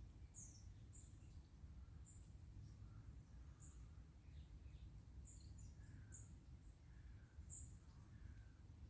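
Faint woodland birdsong: several birds giving short, high, thin chirps about once a second, with a few lower calls among them, over a steady low rumble.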